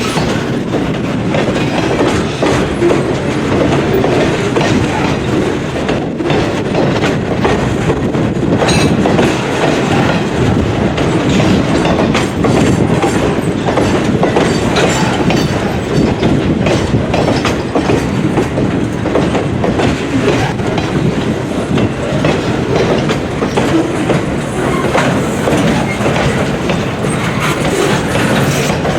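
Freight train cars rolling steadily past, with a continuous rumble and wheels clicking over the rail joints.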